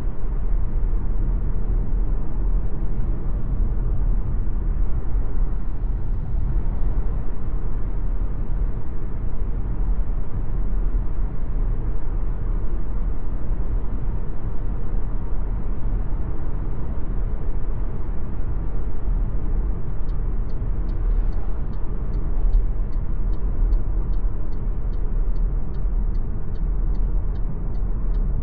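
Steady road and tyre rumble of an MG ZS Hybrid+ driving along. Near the end, a faint, even ticking comes in at about two ticks a second.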